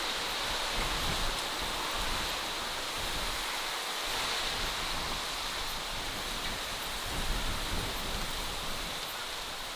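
Steady natural outdoor ambience: an even rushing hiss that holds level throughout.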